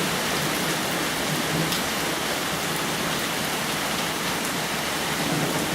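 Steady tropical-storm rain falling, an even hiss with faint scattered drop ticks.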